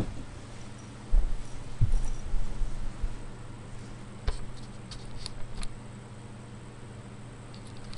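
Steady low electrical hum, with several heavy low bumps and then a handful of sharp clicks: handling noise on a home recording microphone.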